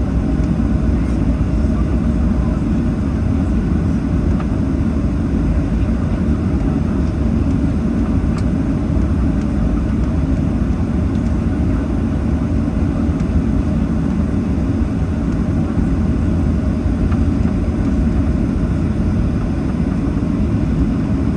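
Steady low rumble inside the cabin of a Boeing 737-800 taxiing, its CFM56 jet engines running at low taxi thrust with a faint steady hum over the rumble.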